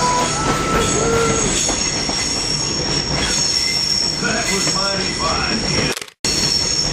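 Passenger train rolling on the Stone Mountain Railroad track: steady rumble of the cars with a high, steady wheel squeal, as on a curve. The sound cuts out completely for a moment about six seconds in.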